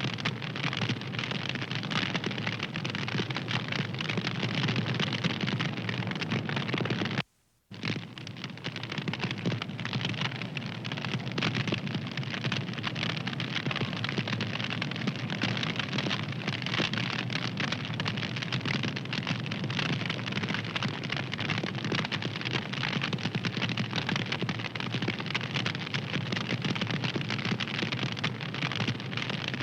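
A fire crackling steadily: a dense run of small snaps over a low rushing noise. About seven seconds in it cuts out to dead silence for about half a second, then carries on.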